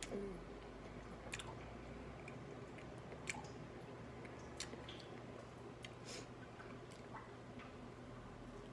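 Faint chewing and lip-smacking of someone eating a piece of air-fried chicken, with a few sharp mouth clicks spread through, over a steady low hum.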